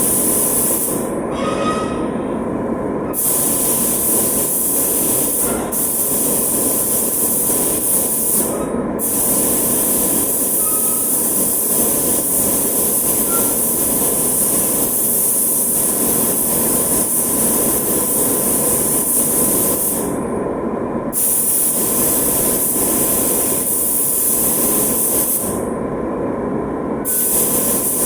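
Compressed-air spray gun hissing as urethane paint is sprayed, the hiss breaking off briefly about four times as the trigger is released, over a steady mechanical rumble.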